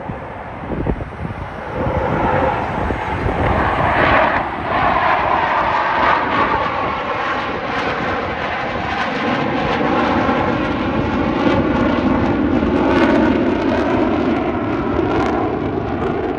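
Blue Angels F/A-18 Super Hornet jets flying past, their loud jet engine noise building about two seconds in and continuing, with the engine tone sliding down in pitch as they pass.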